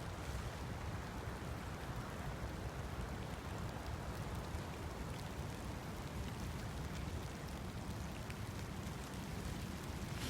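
Steady rain hiss, with wind rumbling on the microphone.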